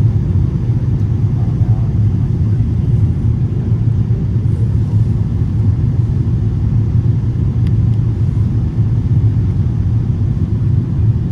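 Steady low rumble of engine and airflow noise inside the cabin of an Airbus A330 airliner in flight.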